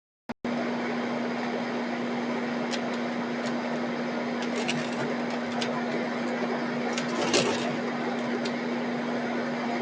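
Steady machine-like hum with a constant hiss, with a few faint short ticks in the middle, the most prominent about seven seconds in.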